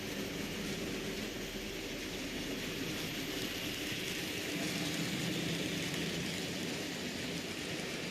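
N gauge model trains running on the layout, their small electric motors and wheels making a steady whirring run that swells a little mid-way.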